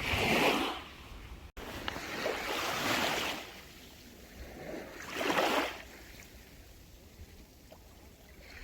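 Small sea waves breaking and washing up on a sandy beach, surging three times, every two to three seconds.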